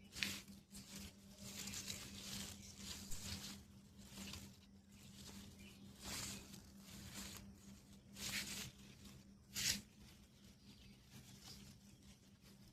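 Rustling and tearing of capsicum plant leaves and stems as peppers are picked by hand, in irregular bursts. The bursts are sharpest just after the start and about ten seconds in, over a faint steady hum.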